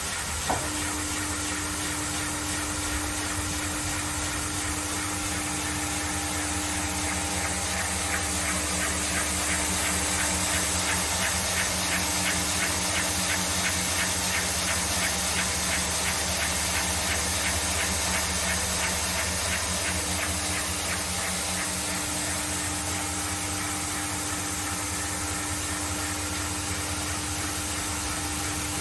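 Johannsen T86 long-belt sander running, its 5.5 kW motor giving a steady hum under a constant hiss from the sanding belt. In the middle it grows a little louder, with a fast, even rasping pulse as the belt works.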